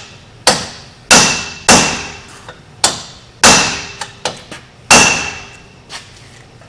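Heavy hammer blows on steel at a seized wheel hub assembly: about six hard, irregularly spaced strikes with a short metallic ring, mixed with a few lighter knocks, stopping near the end. The hub is not coming loose.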